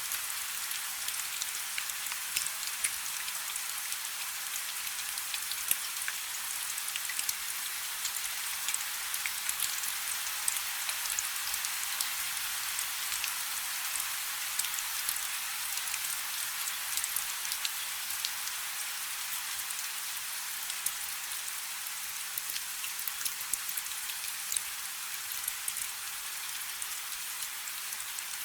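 Steady rain falling on a river's surface: a continuous even hiss with countless small drop patters.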